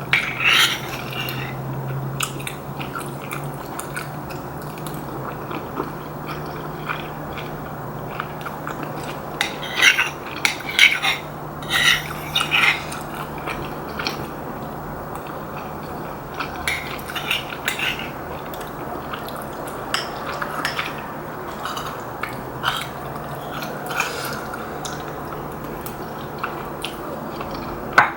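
Eating Korean rice cake and dumpling soup: a spoon or chopsticks clicking against the bowl and chewing, in scattered short clicks that cluster about a third of the way in. A steady low hum runs underneath.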